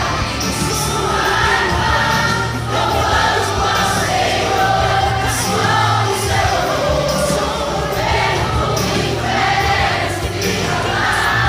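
Choir singing a Christian hymn over instrumental accompaniment, with held sung notes over a steady bass.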